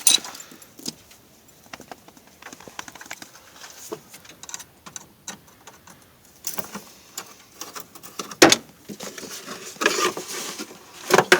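Scattered clicks, knocks and light metallic rattles of parts and tools being handled and pulled loose in a pickup's engine bay, with a sharper knock about eight and a half seconds in and more clatter near the end.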